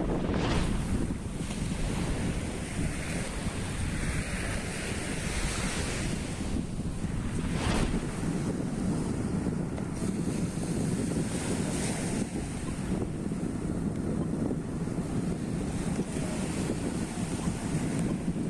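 Wind buffeting the microphone over breaking surf at the seashore: a steady low rumble with a few brief gusts or splashes that rise above it.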